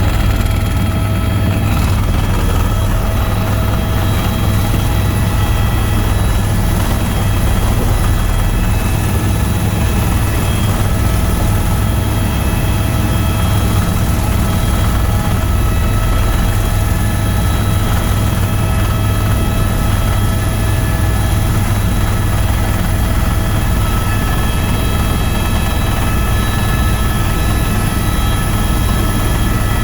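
Tour helicopter in steady cruising flight, heard from on board: a constant, loud low rotor drone with a steady turbine whine above it.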